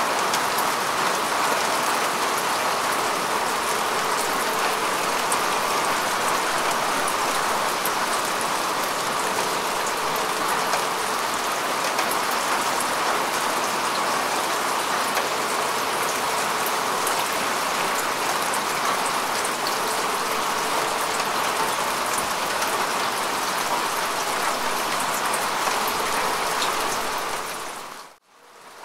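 Steady rain falling on grass and earth: a dense, even patter of drops. Near the end it fades out to near silence for about half a second, then fades back in.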